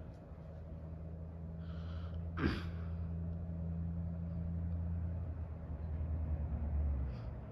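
Hampton Bay Huntington ceiling fan running on medium speed: a steady low motor hum. A single short sharp sound about two and a half seconds in is louder than the hum.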